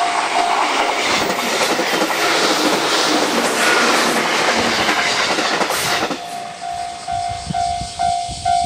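JR Kyushu 813 series electric multiple unit passing close by: a loud rush of wheel-on-rail noise lasting about six seconds. A level-crossing bell rings about twice a second, drowned out by the passing train and clear again once it has gone, about six seconds in.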